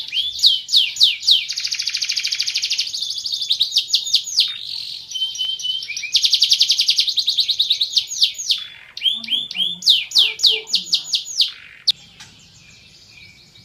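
Domestic canary singing a long song phrase: runs of quick downward-sweeping notes alternating with fast rolling trills, stopping about twelve seconds in.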